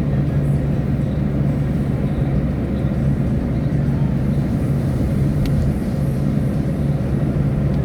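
Small car's engine running at a steady drone with tyre and road noise, heard from inside the car as it drives down a hill road.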